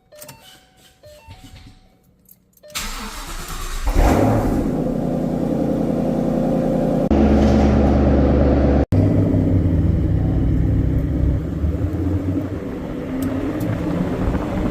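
2014 Shelby GT500's supercharged 5.8-litre V8 starting up about three seconds in, after a few faint tones, then running steadily at a high idle. It gets louder and deeper for a stretch in the middle.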